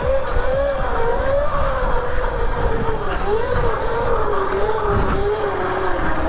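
Electric dirt bike motor whining while riding, its pitch wavering up and down and slowly dropping, over wind rumble on the microphone.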